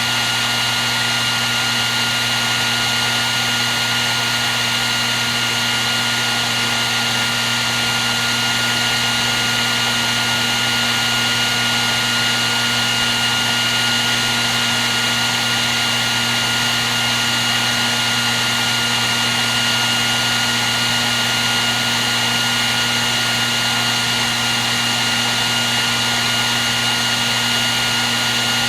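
Hair dryer running steadily: a constant rush of blown air with a low hum and a high motor whine, unchanging.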